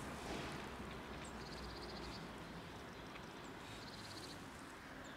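A small bird gives two short, high, rapid trills, about a second and a half in and again near the end, over a low steady background hum.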